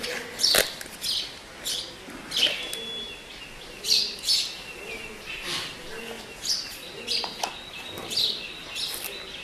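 Small birds chirping: a run of short, high chirps, roughly two a second, on and off.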